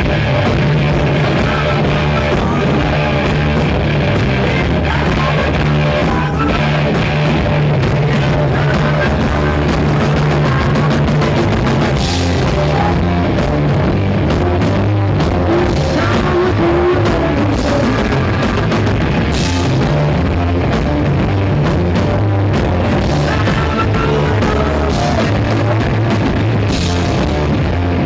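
Rock band playing live, loud and steady: drum kit, bass and electric guitar in an instrumental stretch without vocals, with a few cymbal crashes.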